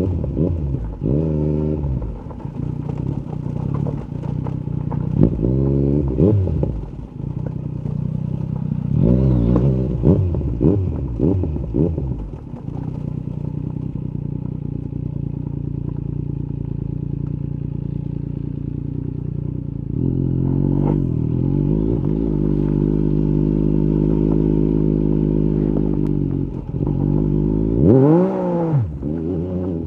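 Yamaha MT-09 SP's inline-three engine through an Akrapovic carbon Racing-Line exhaust, revving up and down through the gears for the first twelve seconds or so. It then runs at a steady speed, pulls harder about twenty seconds in, and gives a quick rev blip near the end.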